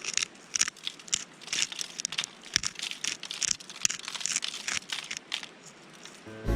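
Irregular crinkling and rustling with many small sharp clicks, as of something dry or papery being handled.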